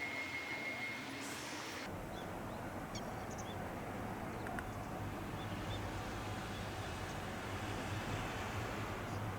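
Omi Railway electric train running, a steady low rumble that sets in abruptly about two seconds in, with a few faint bird chirps above it.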